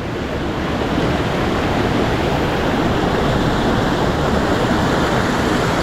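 Steady rush of fast-flowing water in a mountain stream.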